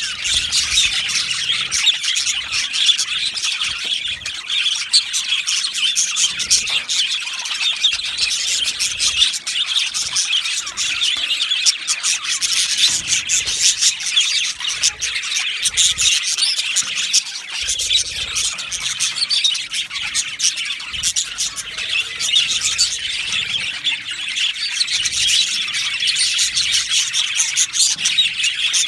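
A colony of budgerigars chattering and chirping together in an aviary, a dense steady mass of many overlapping warbles, chirps and squawks.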